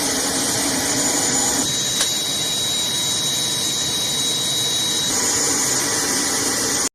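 Helicopter turbine engines running with a steady loud rushing noise. A thin high whine rises out of it from about a second and a half in until about five seconds, with a single click around two seconds.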